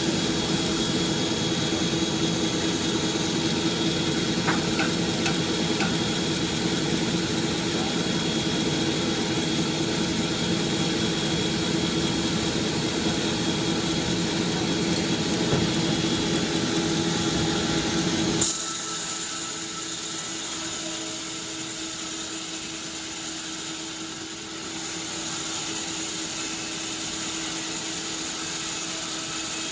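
Sawmill machinery running steadily with a constant whine and low rumble. About two-thirds of the way through the sound changes suddenly: the low rumble drops away and a higher whine carries on.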